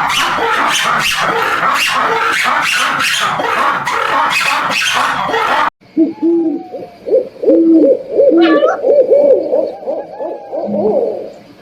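Animal sounds: first a run of rhythmic, noisy pulses about two or three a second, then, after an abrupt cut, a quick series of short, low hooting calls.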